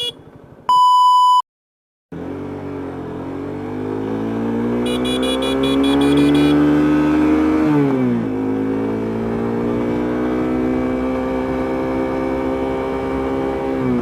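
A short electronic beep, then after a moment of silence a motorcycle engine accelerating, its pitch climbing steadily. The pitch drops sharply at an upshift about eight seconds in, then climbs again. A rapid series of short high beeps sounds around the middle.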